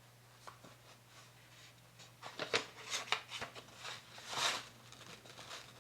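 Paper being handled: short rustles and light taps as pieces of paper are moved and laid over a page, with a longer rustle near the end.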